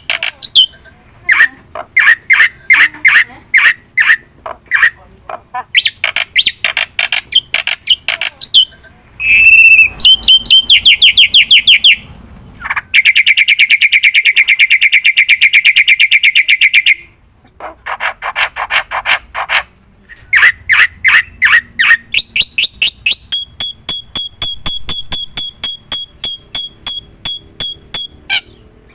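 Black-winged starling (jalak putih) singing loudly and continuously: rapid series of sharp, harsh repeated notes, a long fast trill about halfway through, and a run of evenly spaced high clear notes near the end.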